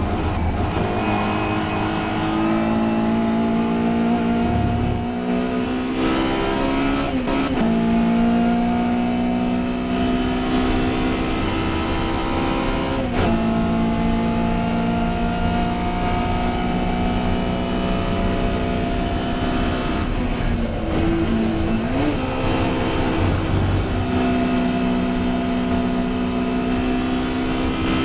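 Touring race car engine running hard under load, its pitch climbing steadily and dropping sharply at gear changes three times.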